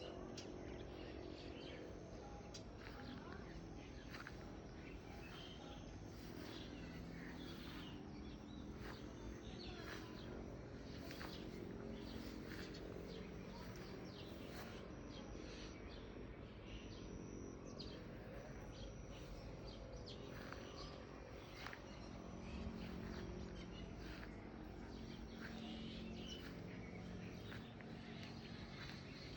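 Birds chirping: many short, high calls throughout, over a faint low murmur of outdoor background noise.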